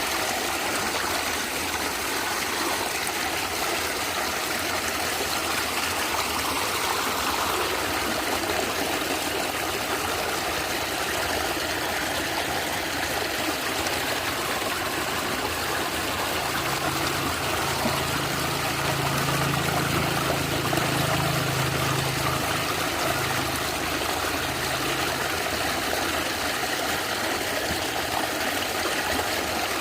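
Natural stream water running and gurgling steadily. A low steady hum joins for several seconds in the middle.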